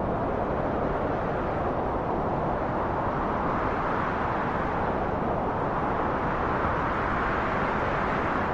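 Steady rushing wind, with slow swells that rise a little in pitch about halfway through and again near the end.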